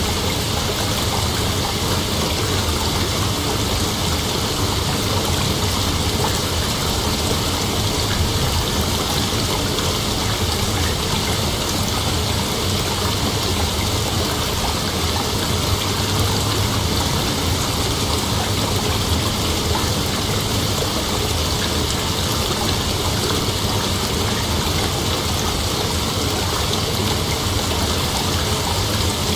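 Night insects calling in a dense, steady chorus, an unbroken hiss-like drone with no pauses.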